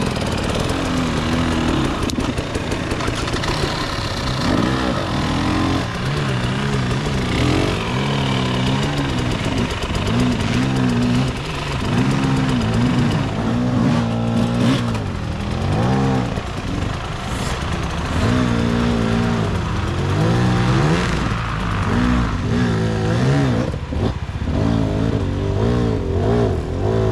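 Enduro dirt bike engines running, their pitch rising and falling again and again as the riders blip and work the throttles.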